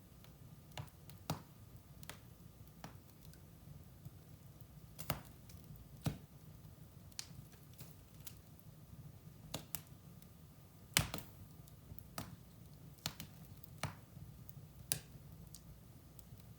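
Wood fire burning in a fireplace, crackling with irregular sharp pops over a low steady rumble, the loudest pop about two thirds of the way through.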